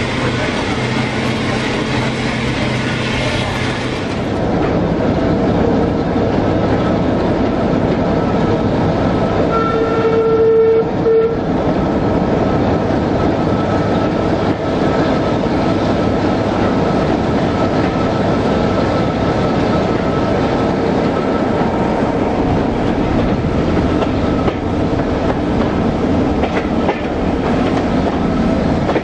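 Passenger carriage of a heritage train running along the track, heard through an open window, with the steady rumble and clickety-clack of the wheels. About ten seconds in the locomotive sounds a single held warning note lasting about a second and a half.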